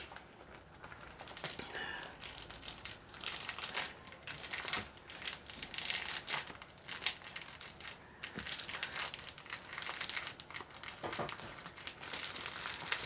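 Stiff paper crinkling and rustling as a paper-stiffened fabric piece is handled, in irregular crackly bursts.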